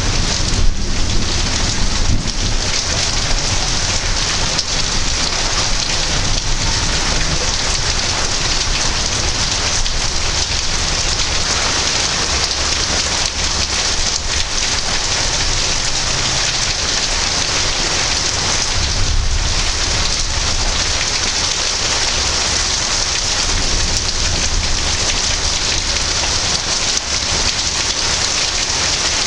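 Heavy rain falling steadily during a thunderstorm, a dense even hiss. Low rumbles of thunder swell under it a couple of times past the middle.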